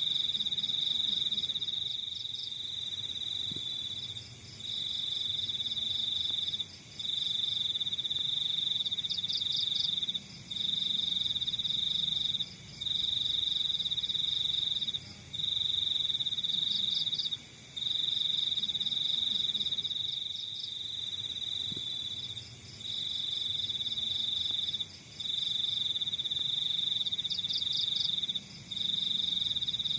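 Crickets trilling: a loud, high, steady trill in stretches of two to four seconds broken by short pauses, with a second, higher pulsing chirp every few seconds.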